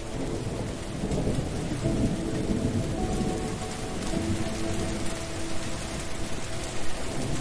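Heavy rain pouring steadily onto a wet surface, with a low rumble of thunder underneath.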